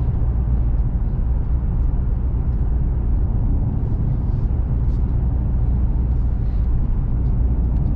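Steady road and engine rumble heard inside a truck's cabin while driving at a constant speed.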